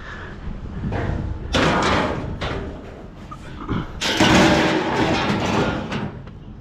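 Heavy thumps and scraping clatter from junk being handled and dropped, in two stretches about a second and a half in and again from about four seconds.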